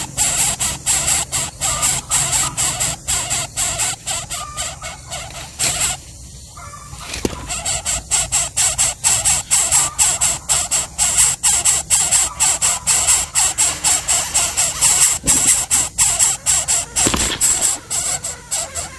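Coucal chick begging: a rapid string of short, high-pitched squealing calls, several a second, breaking off briefly about six seconds in and then resuming.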